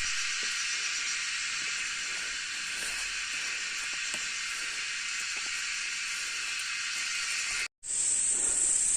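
Steady, high-pitched drone of an insect chorus (crickets or cicadas), cut off for a moment near the end.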